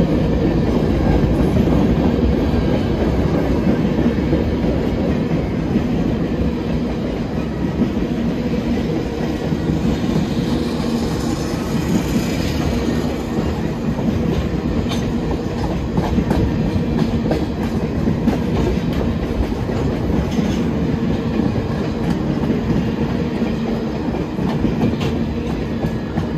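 Freight train of tank and hopper cars rolling past: a steady rumble of steel wheels on rail, with now and then a sharper clack.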